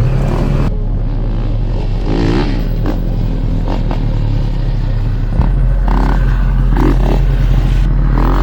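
A vehicle engine running steadily with a low drone, with clattering and scraping over it; the drone shifts slightly, with a small knock, about five seconds in.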